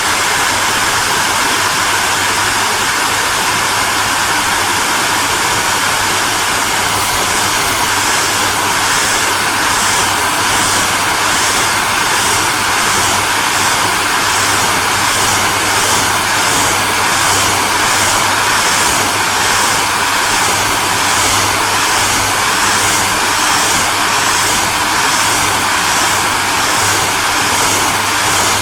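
Hair dryer running steadily: a loud, even blowing hiss over a low motor hum. From about a quarter of the way in, the high part of the hiss pulses faintly and evenly, about one and a half times a second.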